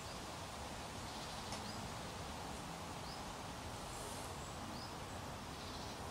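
Steady low outdoor background noise, with a small bird giving three faint, short rising chirps about a second and a half apart.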